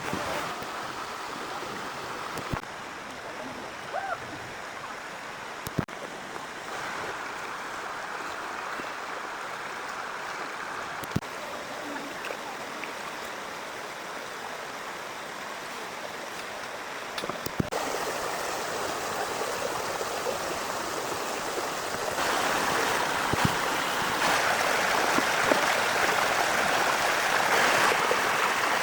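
Steady heavy rainfall, growing heavier about eighteen seconds in and again about four seconds later, with a few sharp isolated taps or pops.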